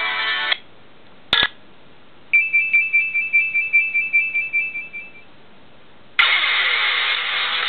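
Nokia 5220 phone ringtones played back in turn: a melodic tone ends, a short click follows, then a high two-note electronic beep pulses about five times a second and fades out over about three seconds. About six seconds in, a full, dense musical ringtone starts abruptly.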